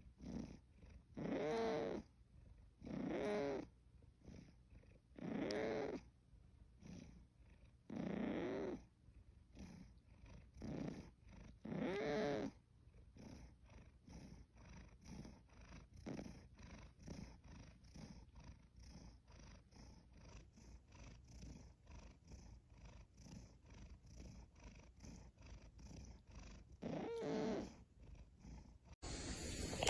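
A sleepy house cat purring in time with its breathing: a louder purr about every two to three seconds, fading after about 13 s to a soft, even purr, with one more loud breath near the end.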